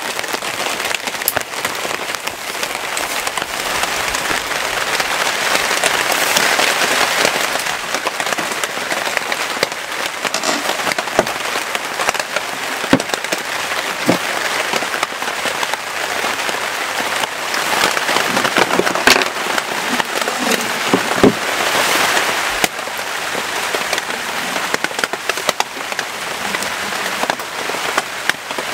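Heavy rain falling steadily, a dense hiss with the sharper taps of individual large drops striking a surface.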